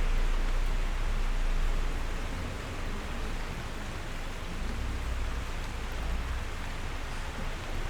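Steady rain, an even hiss with a low rumble underneath, easing slightly about two seconds in.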